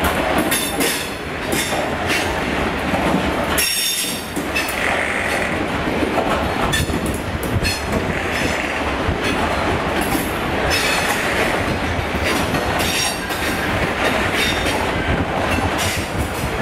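Freight train of bogie hopper wagons passing, its steel wheels clattering steadily over the rail joints and pointwork with a run of sharp clicks. A brief high wheel squeal comes about four seconds in.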